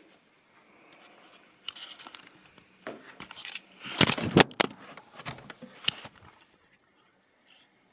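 Close handling noises: rustling and crinkling with scattered clicks, loudest in a short burst of scraping and rustling about four seconds in.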